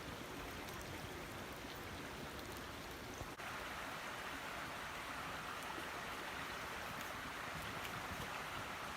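A steady rushing sound of water, even throughout, with a brief dip about three and a half seconds in, after which it carries on slightly brighter.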